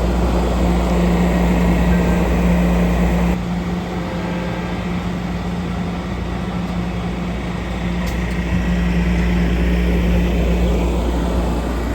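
Southbound passenger train going by close at hand: a steady diesel locomotive drone with a low rumble of the train underneath. The level drops suddenly about three seconds in and swells again later.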